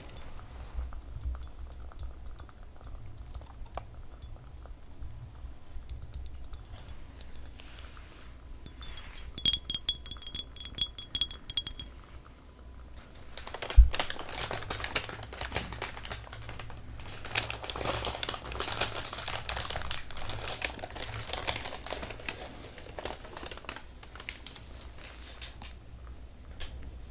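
ASMR tapping and scratching with fingernails on small objects: scattered light taps, then a quick run of taps with a faint high ring, one loud knock about 14 seconds in, and a long stretch of dense, fine crackly rustling.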